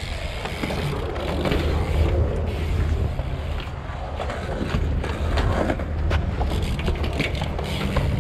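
Wheels rolling over a concrete skatepark surface in a steady rumble, with scattered clicks and knocks.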